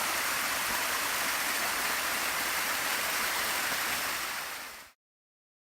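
Waterfall on a river, a steady rush of falling water. It fades out abruptly to silence just before the end.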